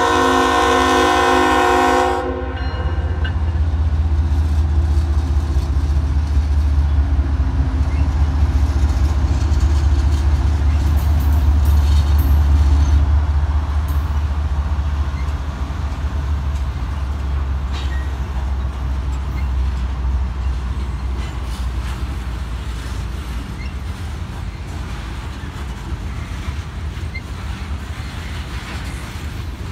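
A diesel freight locomotive's horn sounding and cutting off about two seconds in, then the heavy low rumble of BNSF diesel locomotives going past, loudest about halfway through. It gives way to the steadier rumble and wheel clatter of loaded hopper cars rolling by.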